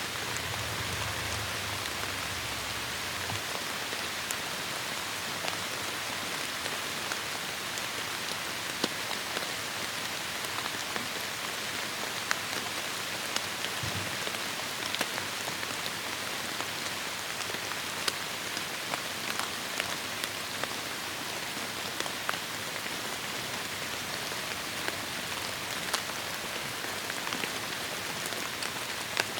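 Heavy rain falling steadily on forest foliage, a dense hiss with many close, sharp drops pattering through it. A brief low rumble shows in the first few seconds.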